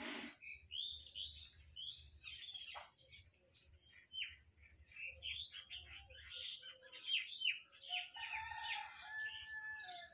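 Small birds chirping busily, many short quick chirps one after another, with a longer drawn-out call near the end.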